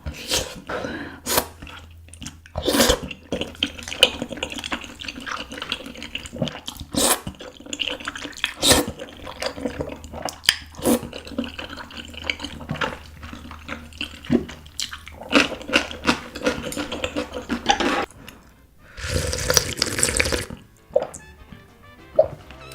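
Close-up mouth sounds of eating malatang with beef intestines: wet slurps of broth and noodles with sips and chewing, and one long loud slurp near the end.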